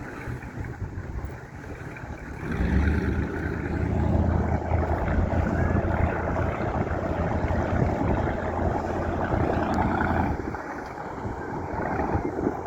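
A passing boat's engine, a low steady rumble that swells about two and a half seconds in and eases off near the end, with wind on the microphone.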